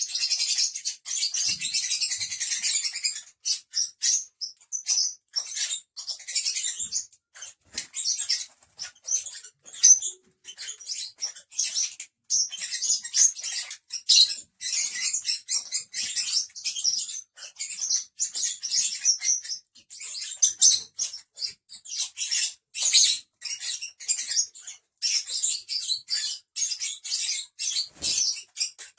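A group of lovebirds chattering, a dense run of rapid, shrill, high-pitched chirps and squeaks with only brief pauses.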